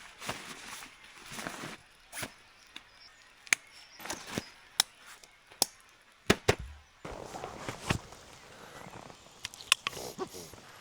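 Rustling broken by irregular sharp clicks and knocks, a dozen or so scattered through, with the background changing abruptly about seven seconds in.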